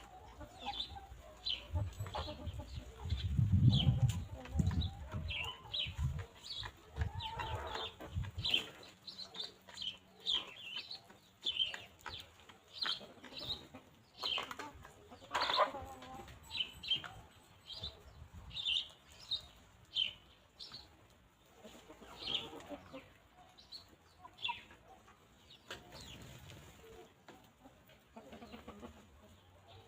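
Free-range hens clucking, with quick short high chirps running throughout. Low wind rumble on the microphone fills the first several seconds and is loudest about four seconds in.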